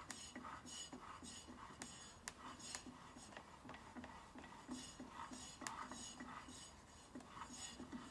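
Light, irregular metallic clicks and clinks of small metal engine parts and tools being handled on a VW air-cooled engine crankcase.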